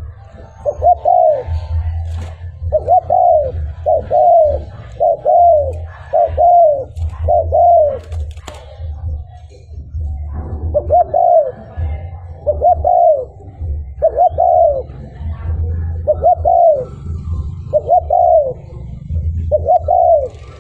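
Spotted dove cooing: a string of short, arching coo notes about one a second, with a short break near the middle, over a low rumble.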